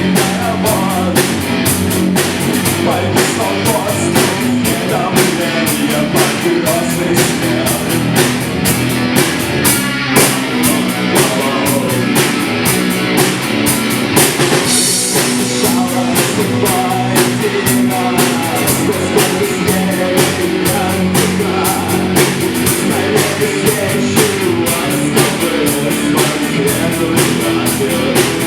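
Live rock band playing: drum kit keeping a steady fast beat under electric guitars, with a cymbal crash swelling about halfway through.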